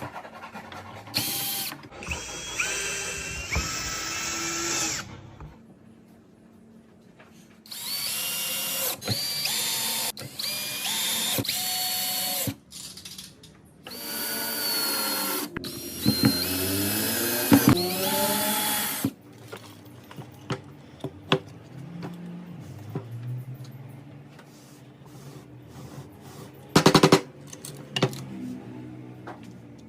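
Power drill running in a series of bursts of one to five seconds, its whine rising as it spins up and sagging as it bites into the wood. In the second half come lighter taps and knocks of wood being handled, with one loud short burst near the end.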